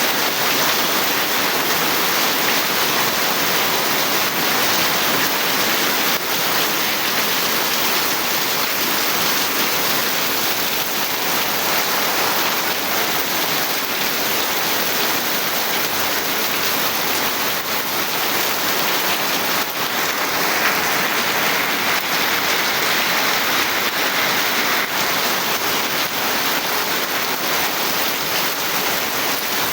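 Steady heavy rain falling and drumming on surfaces, a dense even hiss with no let-up.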